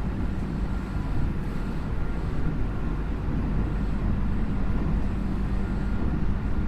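Interior running sound of a Tokyu 5050 series electric train between stations: a steady rumble of wheels on rail with a faint, steady high whine.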